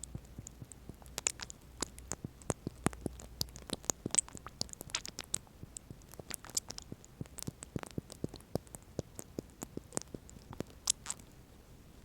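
Eye-drop bottle handled close to the microphone as an ASMR trigger: quick, irregular small clicks and taps, several a second.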